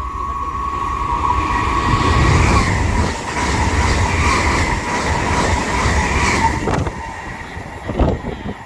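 Hitachi Blues (HTR 412) Intercity train passing at speed, with rail and wheel noise that builds to a peak and then eases off. A steady high whine runs through it, and a single knock comes near the end.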